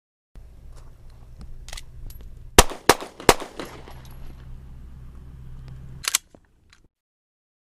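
Three quick shots from a handgun, about a third of a second apart, with lighter clicks before and after.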